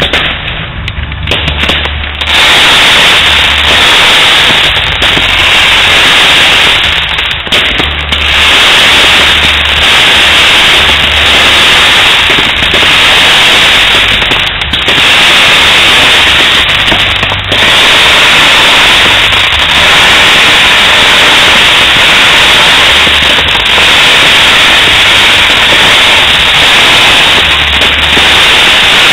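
Fireworks display: a dense, continuous barrage of crackling fireworks, starting about two seconds in. It is so loud that it overloads the recording into a harsh, distorted, near-constant noise with only brief dips.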